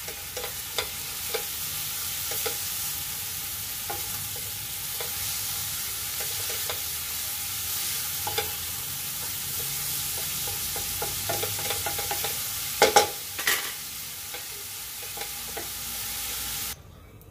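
Bean sprouts sizzling in hot oil in a pan while being stirred with a wooden spatula, which scrapes and taps against the pan; two louder knocks about two-thirds of the way through. The sizzle cuts off suddenly right at the end.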